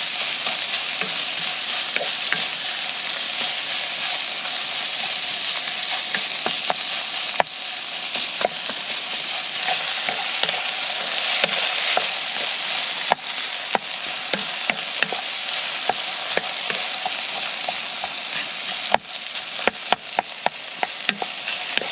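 Pieces of fat frying and sizzling in a pan as they are browned, with a utensil clicking and scraping against the pan as it is stirred. There is a quick run of clicks near the end.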